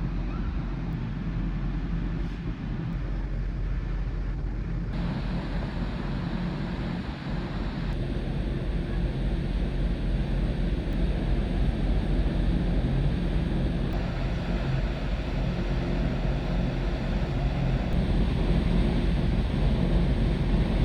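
A ferry's engines droning steadily, with wind buffeting the microphone and the rush of the sea over it; the mix changes abruptly a few times.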